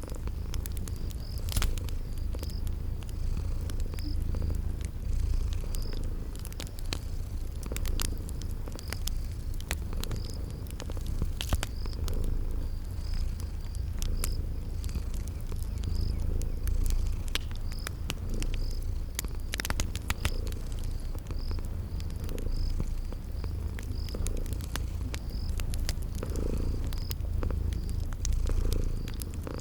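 Cat purring with a steady low rumble, over a crackling wood fire giving sharp irregular pops, and a cricket chirping at an even pace.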